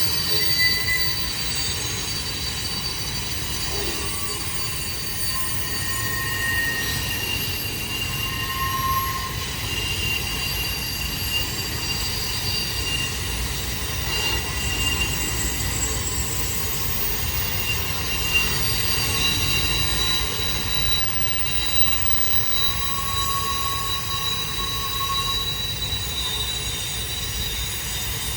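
Train cars rolling over curved track, their wheel flanges squealing in shifting high tones that come and go over a steady low rumble.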